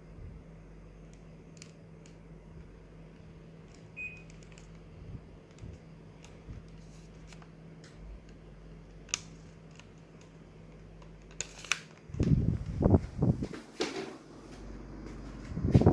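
A single short beep from a Daikin mini split's indoor unit about four seconds in, the unit acknowledging a remote-control command, over a faint steady hum. Near the end come several loud irregular noises.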